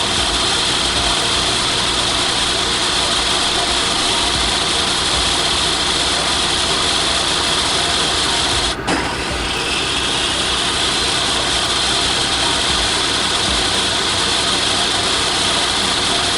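Heavy equipment's diesel engine running steadily, with a short break about nine seconds in before it carries on.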